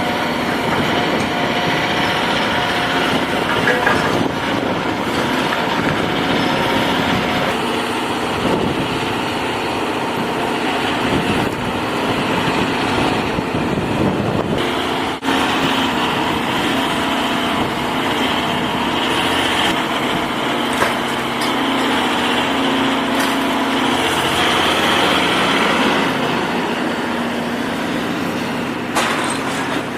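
Heavy-equipment diesel engine running steadily, with a few knocks.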